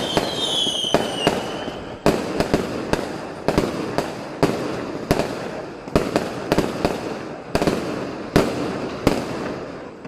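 Many fireworks and firecrackers going off in irregular sharp bangs over a continuous echoing rumble of further explosions. Whistling fireworks glide down in pitch through the first two seconds, and the barrage thins out near the end.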